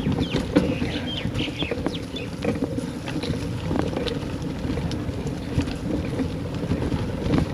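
Wind rumbling on the microphone during a bicycle ride, with scattered small rattles and clicks throughout.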